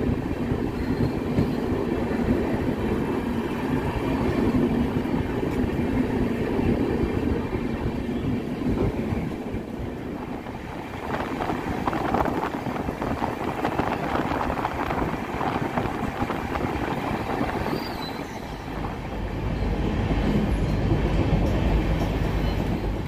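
Passenger train coach running on the track, a steady rumble of wheels and carriage heard from on board.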